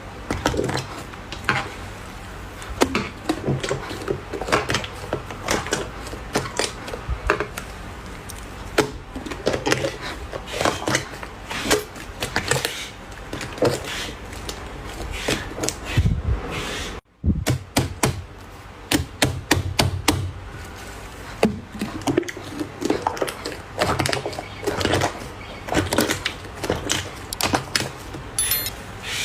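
Hands squishing and pressing slime, making dense, irregular crackling clicks and pops, with a brief silent gap a little past halfway.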